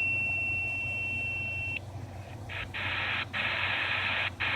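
An unidentified odd signal heard through a radio receiver tuned to lower sideband. A steady high tone cuts off about two seconds in, then after a short pause comes a hissing buzz in blocks with brief breaks between them.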